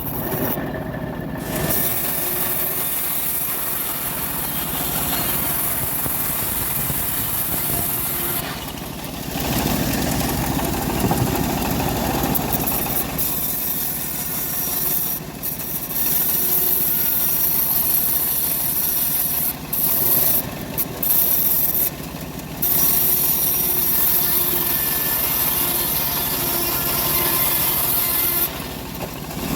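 Home-built bandsaw mill cutting through an acacia log: a steady, loud rasping saw noise, with a few short dips in loudness.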